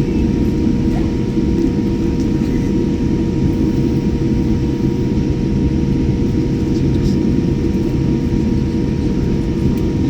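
Steady low rumble of an airliner's engines, with a constant hum running through it.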